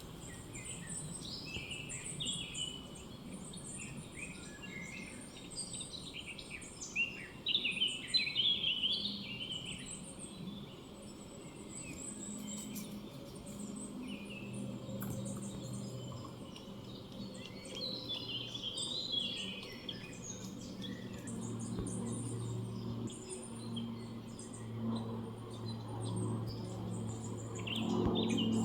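Several small songbirds chirping and calling, chaffinches among them, with short quick notes throughout. A low steady hum sets in about halfway through.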